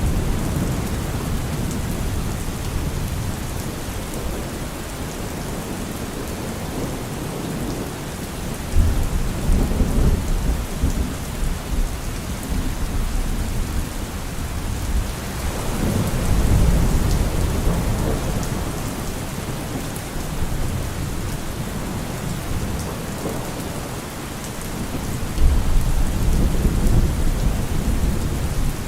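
Steady rain falling, with thunder rumbling low three times: about a third of the way in, just past the middle, and again near the end.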